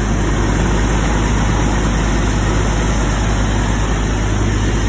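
Newly installed car engine idling steadily on its first run, warming up.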